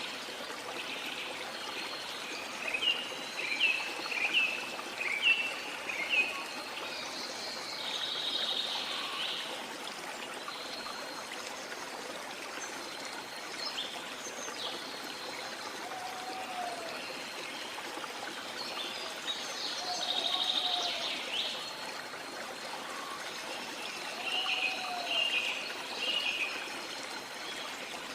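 A river flowing steadily with birds calling over it: a run of short repeated chirps a few seconds in and again near the end, a couple of buzzy trills, and soft low whistled notes every few seconds in the second half.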